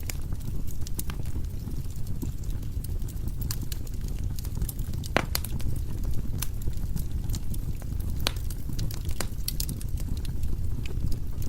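Firewood burning in a fireplace: a steady low rumble of the flames with irregular sharp crackles and pops of the logs, the loudest pops about five and eight seconds in.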